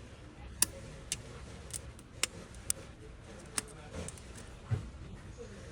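Scattered sharp clicks and knocks at uneven intervals, with two duller thumps a little past the middle, over faint room hum.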